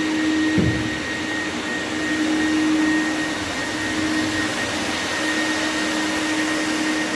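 Steady machine noise, a whooshing hiss with a constant hum and a thin high whistle, like a vacuum or blower running, with one short thump about half a second in.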